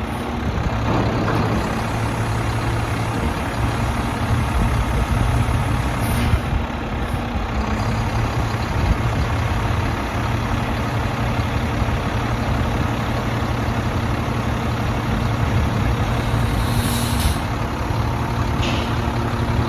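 Mack MP7 diesel engine of a garbage truck running steadily, with two short hisses of air, about six seconds in and again near the end.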